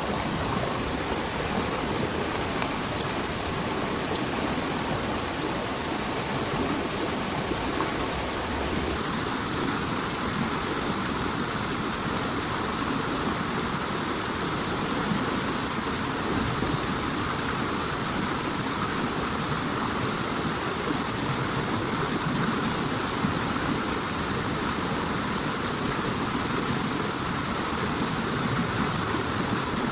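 Heavy rain pouring steadily, a dense, even rush of water; its tone shifts slightly about nine seconds in.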